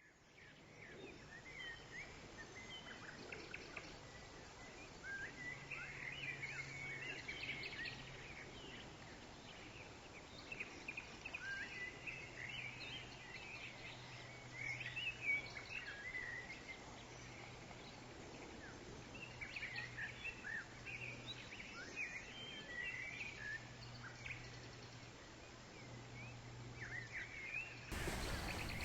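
Small woodland birds chirping and singing in scattered short phrases over a faint steady low hum.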